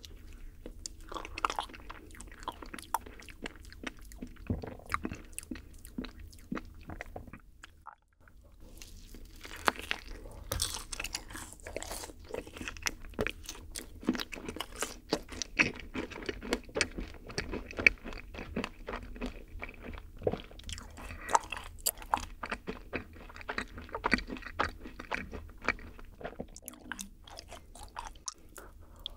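Close-miked chewing of yakgwa, a syrup-soaked Korean fried honey cookie, topped with vanilla ice cream: dense crunching and small mouth clicks that stop briefly about eight seconds in.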